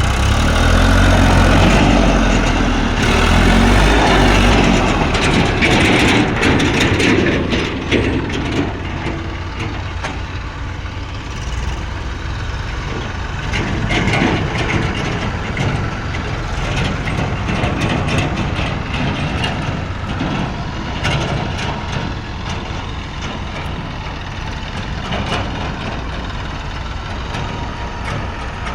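Diesel engines of a JCB 3DX backhoe loader and tractors running, working hard and loudest over roughly the first five seconds, then settling to a steadier running with scattered clanks and knocks.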